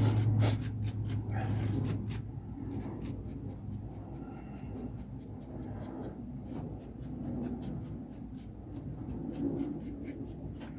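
Small brush sweeping loose dry grout off model railway track: a quick run of short, scratchy bristle strokes. A low hum at the start fades out over the first few seconds.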